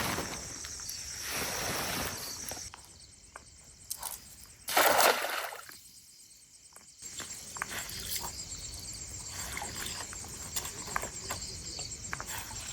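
Lake water sloshing at the shore, with one louder rush of sloshing about five seconds in.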